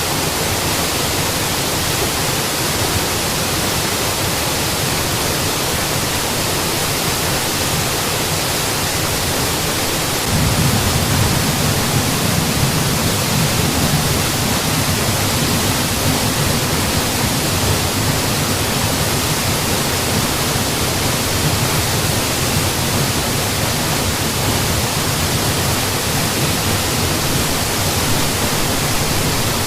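Mountain waterfall, water falling in a steady wash of noise. About ten seconds in, the low rumble grows a little louder and stays that way.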